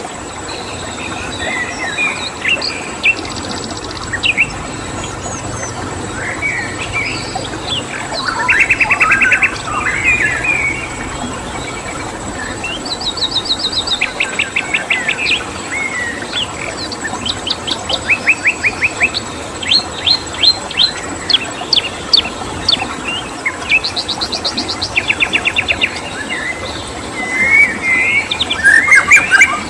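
Several wild birds chirping and calling, with repeated rapid trills every few seconds, over a steady background hiss and a constant thin high tone.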